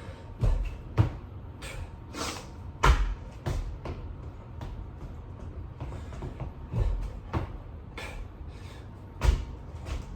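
A person doing burpees and push-ups on the floor, with irregular heavy thumps as hands and feet land and scuffing and rustling in between.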